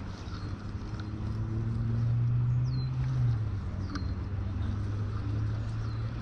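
Steady low drone of a motor, swelling for about a second near the middle, with a few faint, short, falling chirps of a small bird over it.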